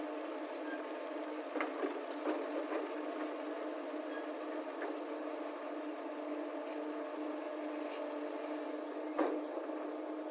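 Diesel engines of excavators and a soil lorry running steadily, with a few sharp knocks: a cluster about two seconds in and the loudest about nine seconds in.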